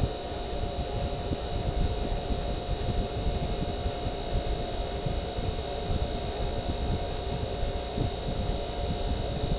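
Room air conditioner running on its low fan setting: a steady hum and rush of air with a constant whine over it. The fan motor, sluggish from sitting unused, is bogging down less on low.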